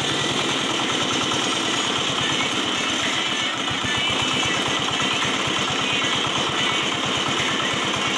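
The single-cylinder petrol engine of a Tigon TG-CC500 concrete cutter running at a steady idle, its firing even and unchanging.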